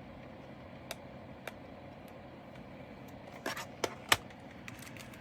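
A few separate sharp clicks and taps from small plastic items being handled, with a quick cluster of them just past three seconds in and the loudest one shortly after.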